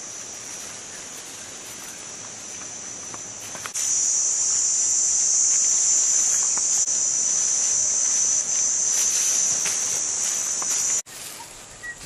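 Steady high-pitched insect chorus that jumps louder about four seconds in and cuts off suddenly near the end.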